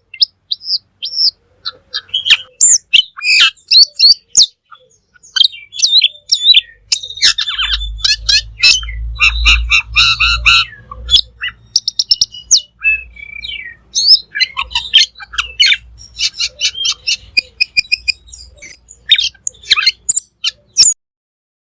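Cucak keling songbird singing in full, busy song: a fast, unbroken run of sharp chirps, whistles and rising and falling trills, with a low rumble under the middle stretch. The song breaks off shortly before the end.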